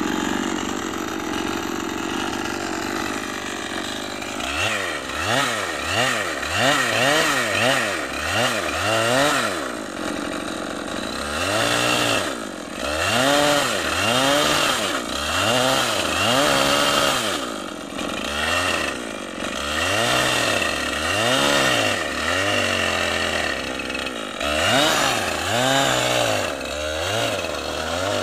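Petrol chainsaw engine idling, then from about four seconds in revving up and dropping back over and over, each rise and fall lasting about a second, as it cuts wood.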